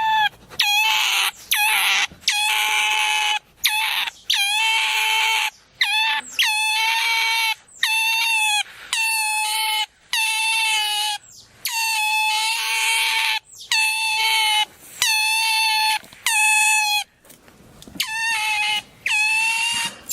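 Asian small-clawed otter calling over and over: a string of high, piercing squeals, each held on one steady pitch for about a second, with a short break near the end. The keeper takes this calling for attention-seeking, not upset.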